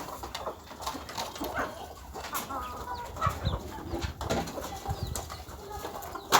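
Chickens feeding: short scattered clucks and chirps over many quick sharp clicks of beaks pecking.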